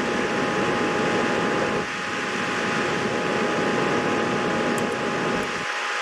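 Steady whirring noise, like a running fan or air-handling unit, with a constant thin whine over it. The low rumble drops out briefly near the end.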